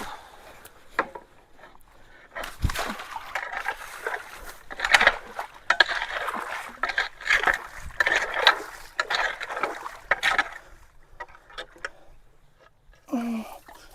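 A person moving through shallow water and debris, irregular sloshing and crunching steps from about two seconds in until about ten seconds in.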